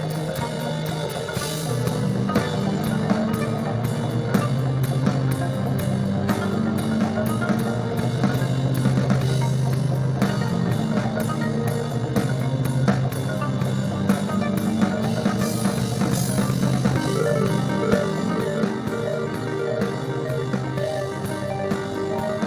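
Instrumental psychedelic rock band playing: a drum kit beats steadily with rapid cymbal strokes over sustained bass notes. The band gets louder about two seconds in.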